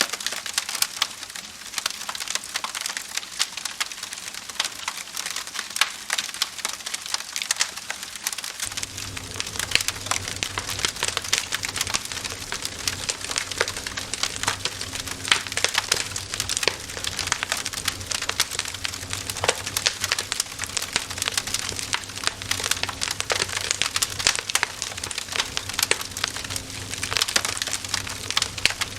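Wood fire crackling, with dense irregular snaps and pops. A low steady hum joins the crackle about nine seconds in.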